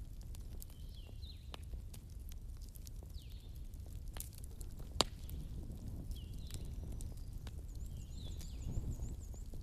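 Wood fire crackling in a fireplace, with scattered pops and one sharp pop about five seconds in, over a low steady rumble.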